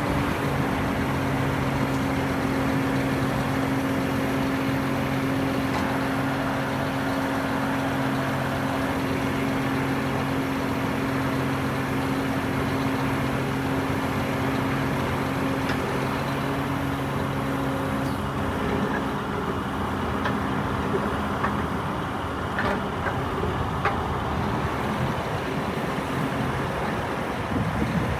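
Scania R480 crane truck's diesel engine running at a steady speed, its pitch dropping to a lower steady note about two-thirds of the way through.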